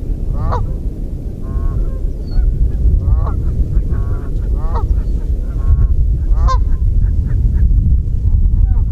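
Large waterbirds calling with repeated short honks, about one a second, over a steady low rumble.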